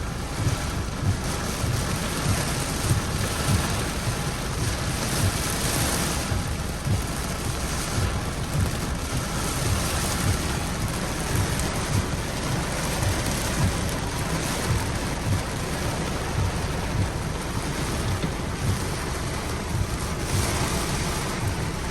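Steady rain, a dense, even hiss with a low rumble underneath.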